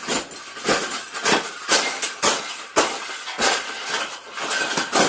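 Round wire bird cage being bent and folded, a run of sharp metal clanks and crunches about twice a second.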